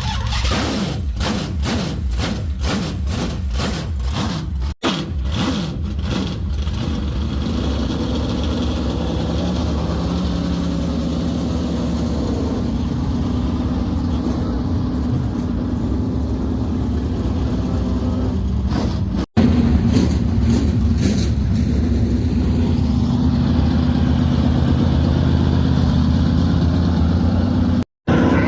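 Race truck engine turned over on its starter and running, with an uneven pulsing beat of about two to three a second for the first six seconds, then running steadily. The starter is loose where it bolts in and makes a weird noise when it turns. The engine runs louder from about two-thirds of the way in.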